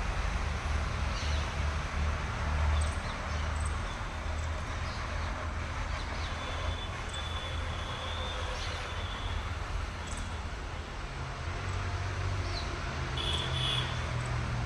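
An engine running steadily with a low rumble, with a few short high chirps over it.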